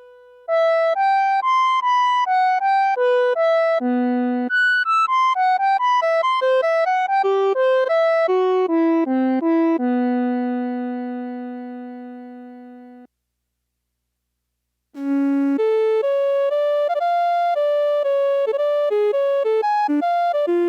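Suiko VS-1 koto synthesizer playing a quick single-note melody. Partway through, a long low note is held and fades away. After a two-second silence, another fast run of notes starts.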